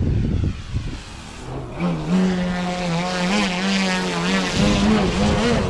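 Electric motor and 18x6 wooden propeller of a Pilot RC Extra 330SC model aerobatic plane: low rumble at first, then a propeller tone comes in about a second and a half in, climbs and holds at a steady high throttle, its pitch wavering slightly.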